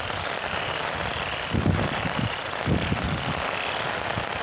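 Steady rain hiss, with wind buffeting the microphone in low rumbling gusts twice.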